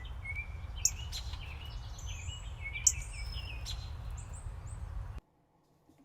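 Several songbirds singing and calling, with short whistled phrases and a few sharp chip notes, over a steady low rumble of wind noise. The sound cuts off suddenly about five seconds in.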